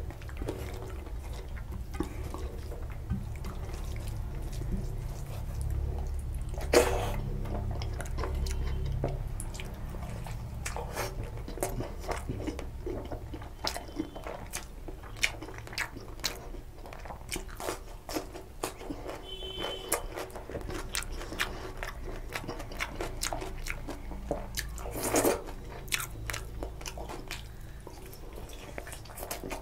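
Close-up chewing and lip-smacking of rice and curry eaten by hand, with many small wet clicks and two louder wet mouth sounds, about seven seconds in and near the end. Near the end he bites into a curried chicken leg piece.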